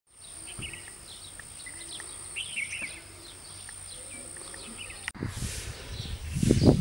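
Small birds chirping intermittently over a steady high-pitched whine. About five seconds in, the sound cuts abruptly to a louder low rumble like wind on the microphone.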